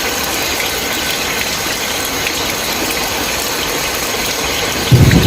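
Steady heavy rain, an even hiss. Near the end a loud, low rumble of thunder breaks in suddenly.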